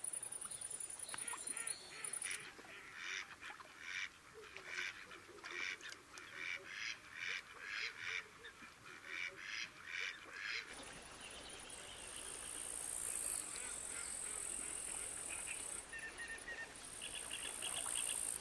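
Waterfowl calling in a rapid, even series of honking quacks, about two a second, for most of the first ten seconds. Then high, steady insect buzzing comes in bouts, with a short run of chirps near the end.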